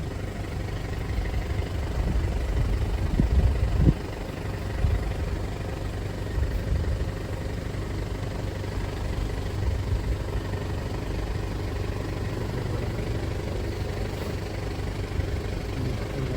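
A safari vehicle's engine runs steadily at low revs. It grows louder for a couple of seconds and drops back abruptly about four seconds in.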